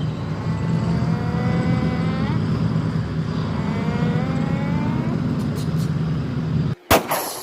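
Tank engine rumble sound effect with two slow rising revs. It cuts off into one sharp bang of a shot or blast near the end.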